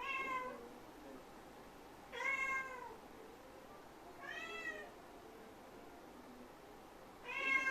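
A domestic cat meowing four times, roughly two seconds apart. Each call is short, rising and then falling in pitch.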